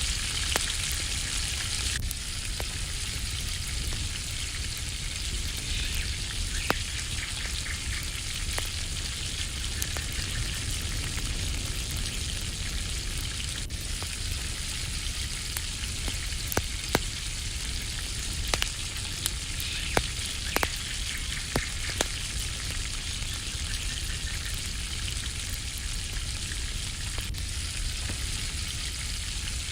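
Food frying in a pan over a campfire: a steady sizzle with scattered sharp clicks and pops, more of them in the middle stretch.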